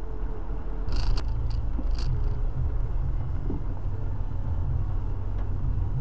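Car engine running with a low, steady rumble, heard from inside the cabin, with a few short sharp ticks about one and two seconds in.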